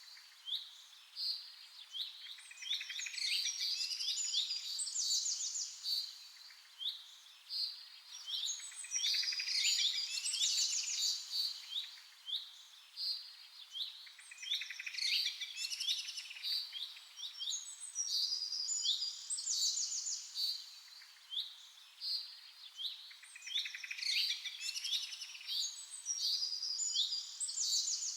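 Several songbirds chirping and trilling in quick, high-pitched phrases. The calls bunch into busy flurries that come back every few seconds, with a soft hiss in between.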